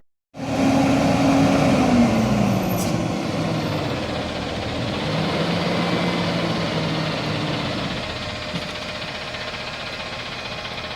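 Garbage truck's engine running at raised revs, which drop about two seconds in and then settle into a steady run.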